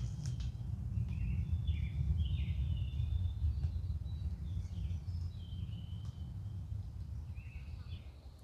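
Wild birds giving scattered short chirps and whistled calls over a steady low rumble.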